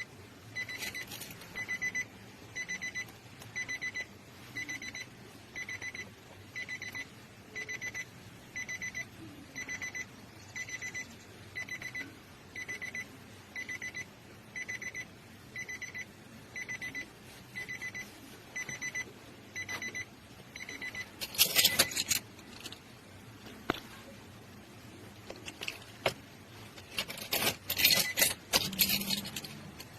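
An electronic beeper repeating one high beep about once a second, some twenty times, then stopping. Two bouts of loud clattering and rattling follow.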